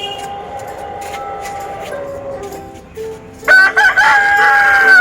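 Brahma rooster crowing: a loud, long crow starts past the middle and is held to the end, with a fainter drawn-out call before it. Background music plays underneath.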